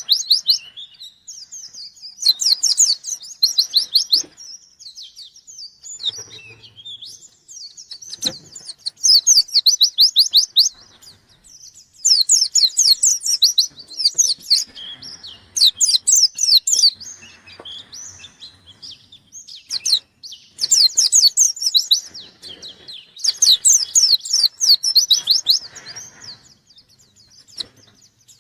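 Pleci (Zosterops white-eye) singing in full voice: bouts of rapid, high-pitched twittering of one to two seconds each, repeated with short pauses between. This is the loud, busy song of a bird in top form calling out a rival.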